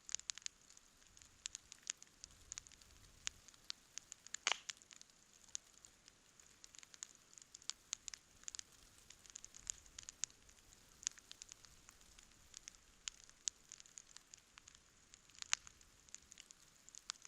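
Wood campfire crackling: irregular sharp pops and snaps over a faint steady hiss, with one louder pop about four and a half seconds in.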